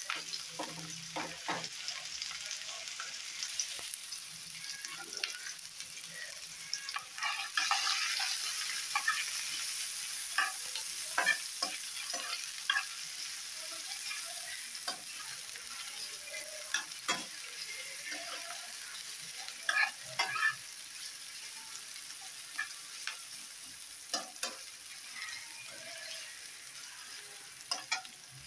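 Sliced onions and green chillies sizzling in hot oil in a nonstick frying pan, with the scrape and tap of a spatula stirring them at irregular moments. The sizzle grows louder about eight seconds in.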